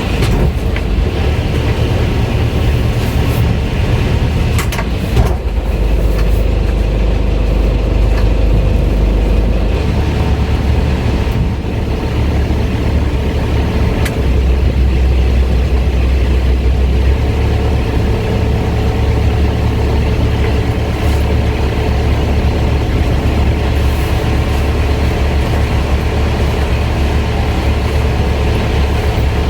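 Sailboat's inboard engine running steadily in forward gear to hold the boat against the wind while the anchor is raised, with heavy low wind rumble on the microphone.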